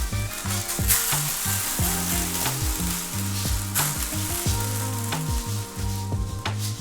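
Candy sprinkles being poured out and scattering across a hard floor: a dense hissing patter with louder surges about a second in and near the four-second mark, over background music.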